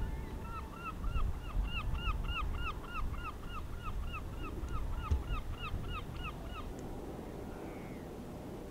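A bird calling a fast run of about two dozen short, arched notes, some four a second, stopping near the end and followed by one faint downward-slurred call. Wind rumbles underneath.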